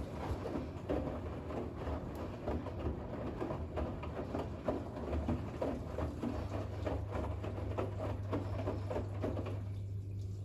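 Bosch WAX32GH1 washing machine drum turning a load of towels in rinse water, with an irregular run of sloshing and soft thuds. A steady low hum becomes stronger about two-thirds of the way through.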